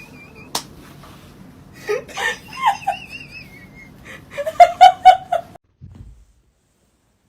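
A person laughing in a quick run of short bursts, with a sharp click about half a second in. The sound cuts off suddenly to silence near the end.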